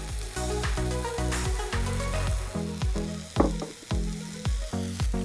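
Tomatoes, dried blueberries and spices sizzling as they fry in oil in a nonstick pan. Instrumental background music with a bass line and a steady beat plays over it.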